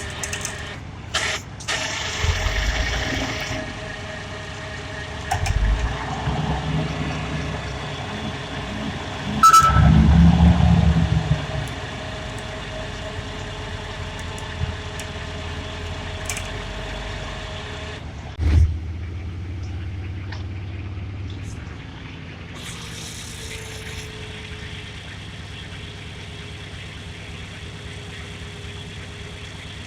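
Heavy truck engine running under load while a stuck dump truck is winched out of mud. It surges louder in low rumbling spells several times, the loudest lasting about two seconds, and a sharp thump comes in the middle. It then settles to a quieter steady run.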